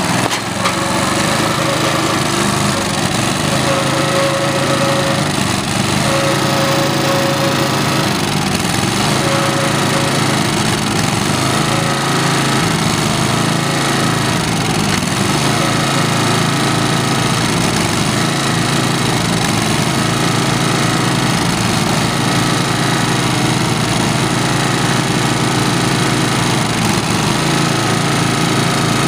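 The 8 hp Tecumseh single-cylinder engine of an Ariens lawn tractor running steadily, holding an even speed.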